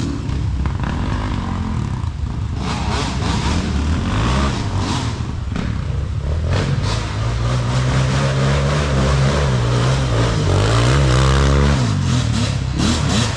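Off-road vehicle engine running under load, its pitch climbing over several seconds as it revs, then falling off sharply near the end.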